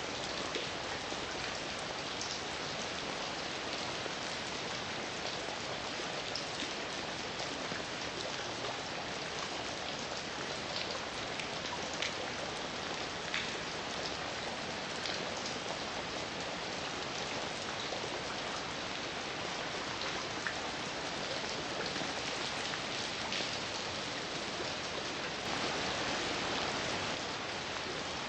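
Heavy rain falling steadily, with individual drops ticking now and then over the even hiss; it swells slightly near the end.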